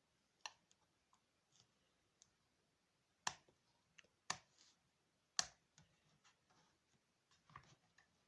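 A few sharp clicks and light taps, the three loudest about a second apart midway.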